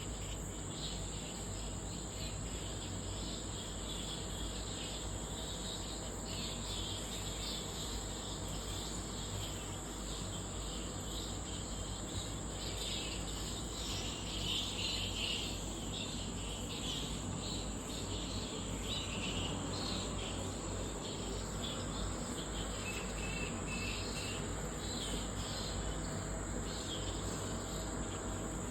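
Night insects chirping in chorus, a steady high-pitched trill, with irregular chirping patches lower in pitch that swell about halfway through.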